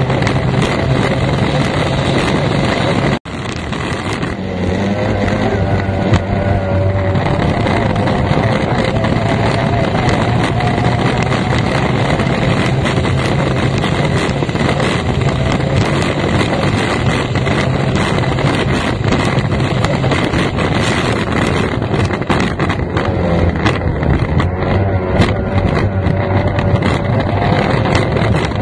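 F1 tunnel-hull racing powerboat's outboard engine running at speed, heard from the cockpit under heavy wind and water rush, its pitch rising and falling with the throttle. The sound cuts out for a split second about three seconds in.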